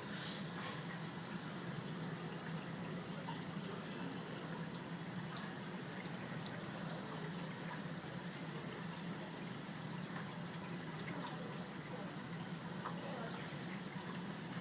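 Tabletop mist-maker water fountain running: a steady trickle of water over a low, even hum, with faint scattered drips.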